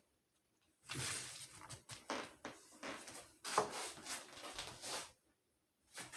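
Kitchen handling noises: irregular rustles and knocks, with the sharpest knock about three and a half seconds in.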